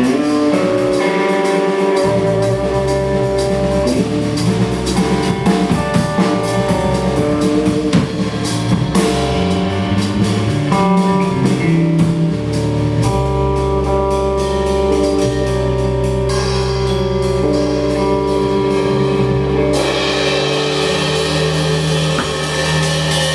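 A live rock band playing: guitar and bass over a drum kit, with sustained guitar notes above a steady bass line.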